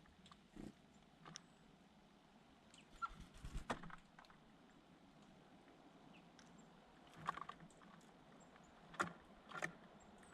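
Small birds pecking and scuffling: scattered short taps and clicks, with a quick run of them about three seconds in and a few sharper single taps later on.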